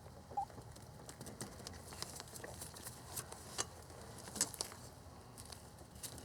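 Faint, scattered clicks and taps of hands working a plastic push-on quick connector onto a plastic fuel line.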